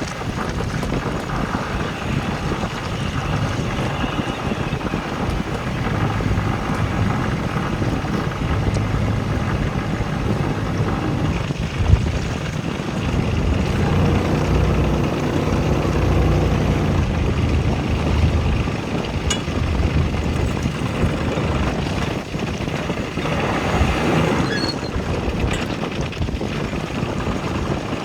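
Wind buffeting the microphone over the low, steady running of a sailboat's inboard engine as the boat motors slowly toward a dock. There is a single sharp knock about twelve seconds in.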